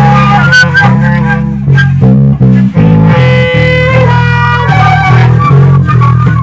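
Loud improvised band music: an electric bass playing a moving line of low notes under guitar and other melody instruments.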